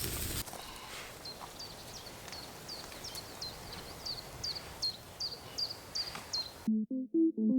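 A small bird repeating a short, high chirp that dips in pitch, about twice a second, over faint outdoor background noise.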